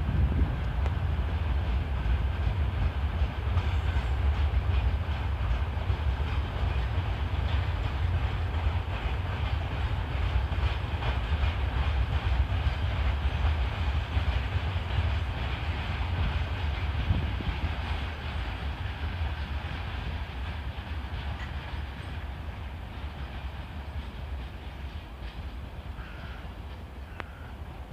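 Freight train wagons rolling past, a steady low rumble of wheels on the rails that fades gradually over the last third as the train moves away.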